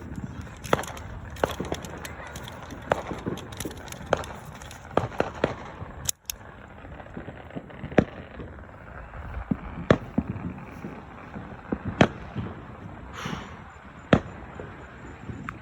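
Fireworks going off: many sharp pops and bangs at irregular intervals, with louder single bangs about every two seconds in the second half.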